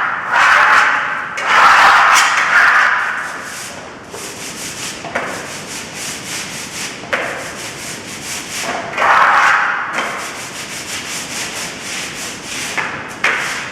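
A hand tool scraping and rubbing across a plastered surface in repeated passes of one to two seconds each, with a few light ticks between them.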